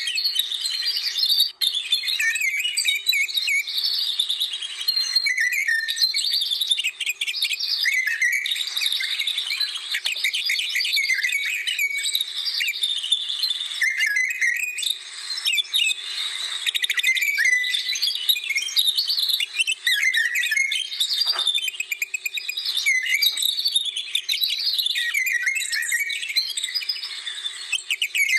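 Songbirds singing together, a dense, unbroken chorus of quick high chirps, trills and whistled notes from several birds overlapping.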